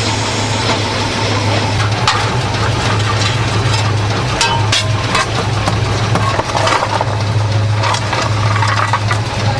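An engine running steadily with a low, even hum, and scattered sharp clicks and knocks over it.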